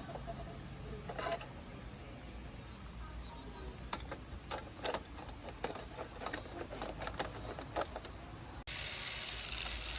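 Scattered crackles and clicks over a steady high chirring hum. About nine seconds in, this gives way abruptly to a louder, steady mechanical whirring.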